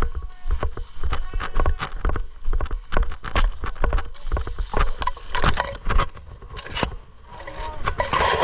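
Footsteps and gear rustling: a quick, irregular run of clicks and low thuds, with a noisier scuffing patch near the end.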